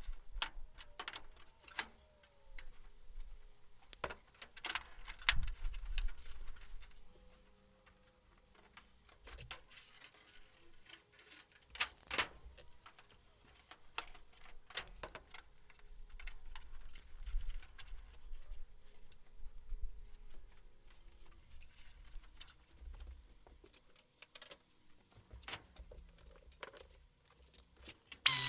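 Scattered light metallic clicks, taps and clinks of hand work on aluminium aircraft parts, with quiet stretches between. A power drill starts up right at the end.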